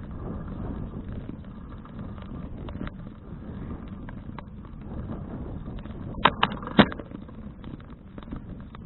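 Wind and road rumble on an action camera's microphone from a bicycle ride, with scattered small clicks and rattles, and three sharp knocks a little after six seconds in.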